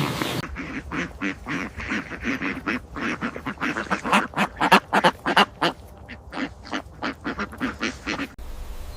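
Domestic fowl giving a rapid run of short, loud calls, several a second, that starts and cuts off abruptly.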